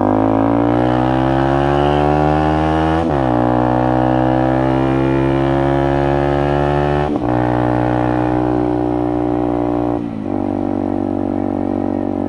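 Motorcycle engine pulling up through the gears, its pitch rising steadily, then dropping sharply at gear changes about three and seven seconds in, and dipping again briefly near ten seconds.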